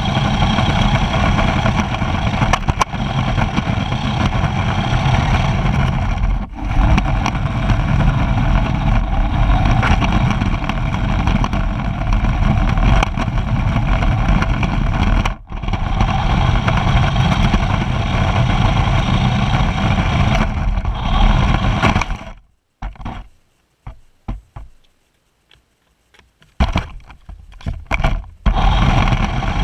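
Race car engine running loud and steady, heard from a camera on the car. It dips briefly twice, then breaks up into near silence in stuttering gaps for a few seconds near the end before coming back.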